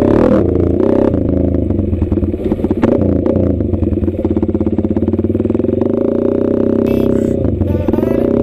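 Motorcycle engine running steadily, with a rapid even pulsing from its firing strokes for a few seconds in the middle.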